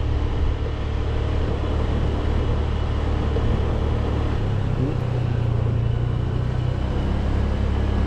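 Motorcycle engine running on the move, with wind and road noise. Its note rises a little about halfway through, then drops back near the end.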